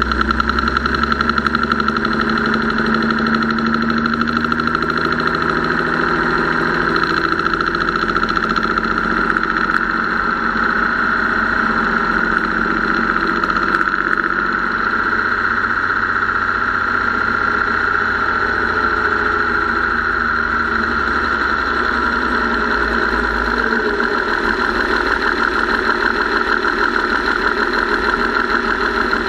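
Engine running steadily with a rapid, even tapping from the valve train. The owner suspects the lifters, the rockers or the mechanical fuel pump, and later takes it for a tired or weak valve spring.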